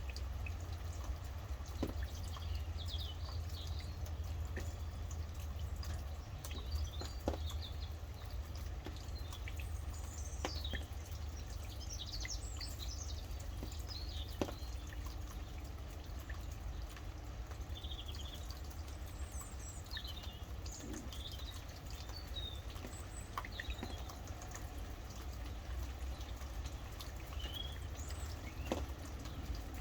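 Rain dripping, with scattered sharp drops, while several birds sing short, chirping phrases over it; a steady low rumble runs underneath.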